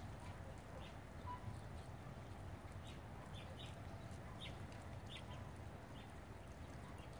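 Faint, short, high bird chirps, a scattered handful from about three seconds in, over a low steady background rumble.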